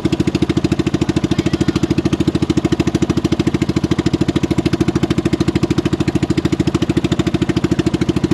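Small engine running steadily at an even speed, a rapid regular chugging with no change in pace.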